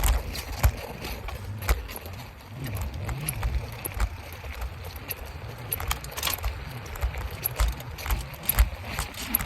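Bicycle ridden on a front tire that is nearly flat, with a steady low rumble and frequent sharp rattling clicks and knocks as it goes over the road.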